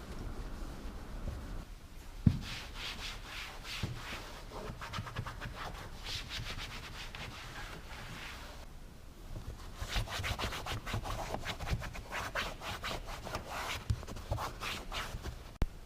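A towel wiping over plastic engine-bay surfaces with cleaner, in quick back-and-forth rubbing strokes that come in three runs with short pauses, and a single sharp knock a couple of seconds in.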